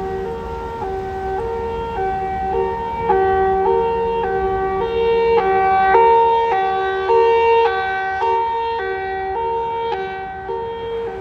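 Fire apparatus siren sounding a two-tone hi-lo pattern, switching between a low and a high note a little over once a second. It grows louder to a peak about halfway through, then fades as the truck moves off.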